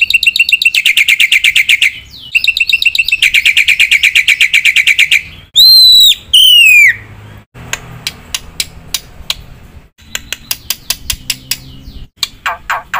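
Black-winged myna singing: two long, rapid trills, then two loud whistles that fall in pitch about six seconds in, followed by a string of sharp clicks and short chirps.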